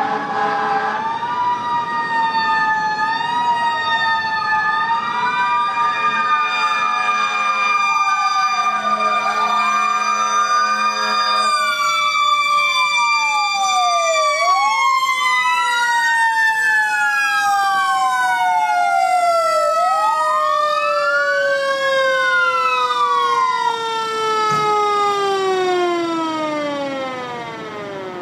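Fire engine sirens wailing, one rising and falling every two to three seconds over a steadier tone that slowly drops in pitch. Near the end the pitch falls away and the sirens wind down.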